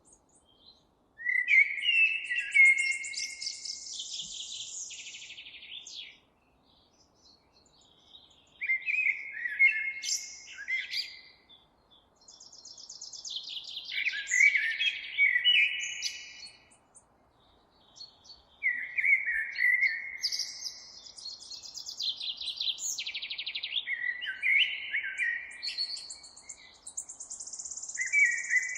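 A songbird singing, several song phrases of a few seconds each separated by short pauses. Each phrase mixes lower chirps with rapid, high trills.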